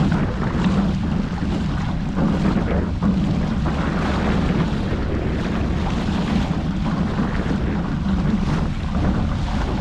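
Wind buffeting the microphone over the rush of water past the hulls of a Hobie 14 catamaran under sail in gusty wind and chop.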